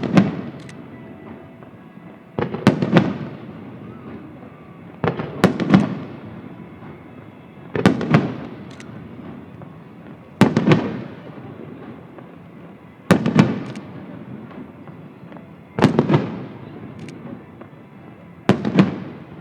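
Aerial firework shells bursting in a steady series, eight bangs about every two and a half seconds. Each bang has a sharp crack followed by a rumbling decay.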